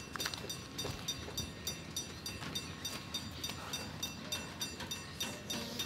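Freight train's covered hopper wagon rolling past at a crawl: a low rumble with a run of light ticks and faint high squeals from the wheels.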